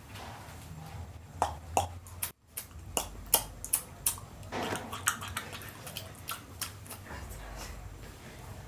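A string of about a dozen sharp, irregular clicks or snaps, roughly two or three a second, starting about a second and a half in and stopping near the end.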